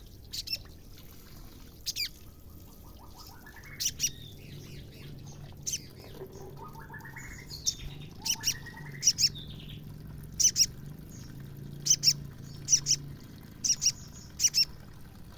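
Female sogon (sogok ontong) bird calling: short, sharp high chips, often in pairs, coming more often in the second half, with a few rising trilled phrases in between.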